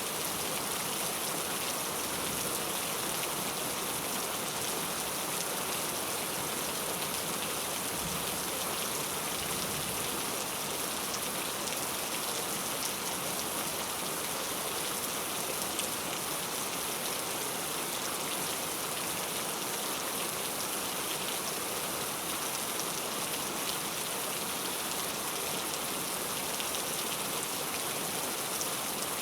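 Heavy rain falling steadily: a dense, even hiss of countless drops with faint individual patters, no change in strength.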